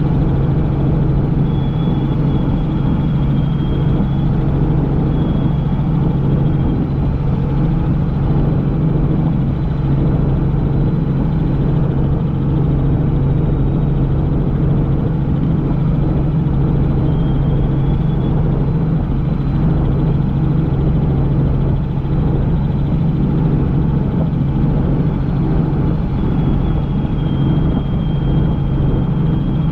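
Helicopter in flight: a steady, loud rotor and engine drone, with a faint high whine that comes and goes.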